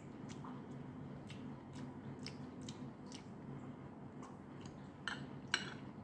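Close-up chewing with small wet mouth clicks, then a metal spoon clinking and scraping on a plate about five seconds in, the sharpest click just after. A low steady hum runs underneath.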